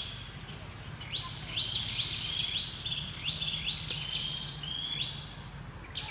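A bird singing outdoors in repeated phrases, each a quick run of high, rising chirps, with a few short gaps between phrases, over a faint low background rumble.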